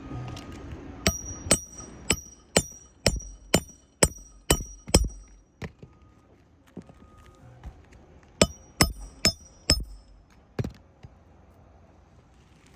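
Hammer driving roofing nails into asphalt shingles: a run of about nine ringing strikes, roughly two a second, then after a pause four more quick strikes and one last blow.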